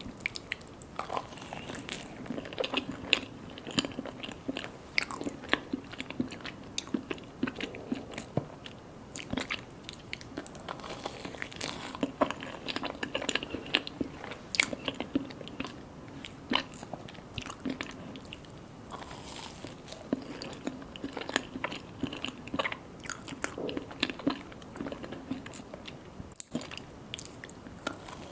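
A person eating mini mousse cakes, with repeated bites, crunches and chewing mouth sounds in an irregular run of clicks.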